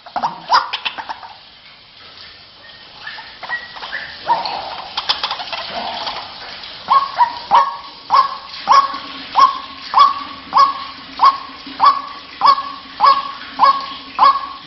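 White-breasted waterhen calling: scattered, irregular notes at first, then from about halfway a steady, loud run of repeated 'kwak' notes, a little under two a second.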